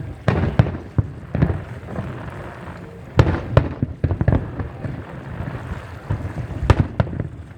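Fireworks going off: a rapid, irregular series of bangs and booms with crackling between them, the loudest about three seconds in and again near the end.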